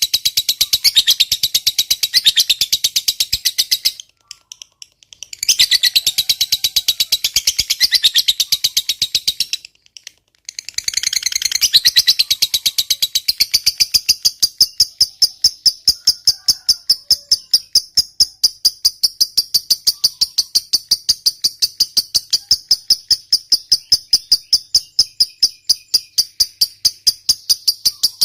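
Lovebird's long, rapid chattering trill, the 'ngekek panjang' used as a bait sound for other lovebirds. It breaks off briefly twice, then runs on as an even, fast ticking chatter.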